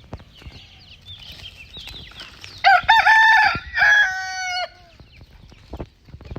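Rooster crowing once, a loud drawn-out crow about two seconds long in the middle, ending on a falling note. Faint small-bird chirps come before it.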